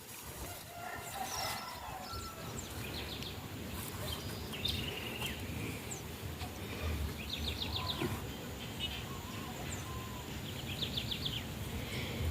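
Birds calling in the background: a few short, rapid high trills and scattered chirps over steady outdoor noise.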